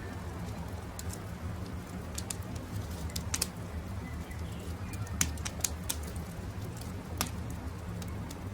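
Campfire crackling, sharp irregular pops and snaps over a steady low rumble, with faint birdsong.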